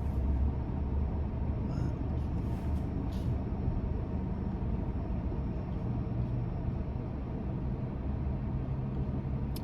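Pickup truck idling in a slow car-wash queue, heard from inside the cab: a steady low engine hum with the air-conditioning fan blowing.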